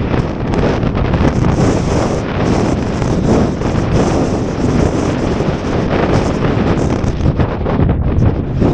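Strong gusting wind buffeting the microphone, a loud, unbroken rush that swells and dips from moment to moment.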